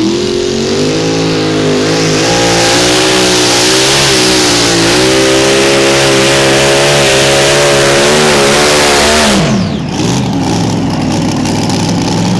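A modified mini pulling tractor's high-revving engine at full throttle during a pull, its pitch climbing and wavering under load. About nine and a half seconds in, the revs drop sharply as the driver lets off, and the engine settles to a lower, steadier note.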